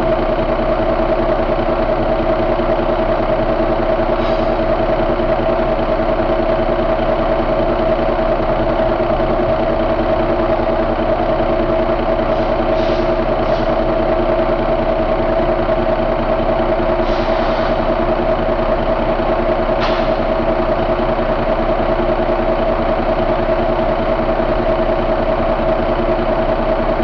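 2007 Cummins ISX inline-six diesel engine idling steadily, with a few faint ticks over the top.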